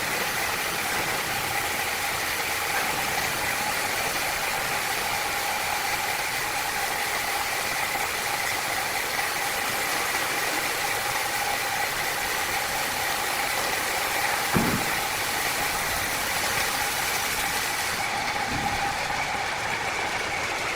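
Machinery running steadily, a constant noise with a steady whine, and a single knock about two-thirds of the way through.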